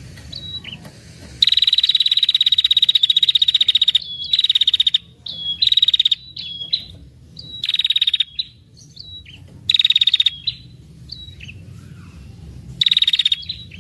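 Female prenjak kepala merah giving its rattling trill ('ngetir'), a lure call used to draw in males. One long rapid trill begins about a second and a half in and lasts over two seconds, followed by five shorter trills with brief single chip notes between them.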